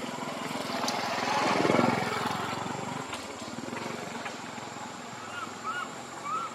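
A motor engine running, swelling to its loudest about two seconds in and then fading, as a passing vehicle would. Near the end come a few short, high chirps, each rising then falling.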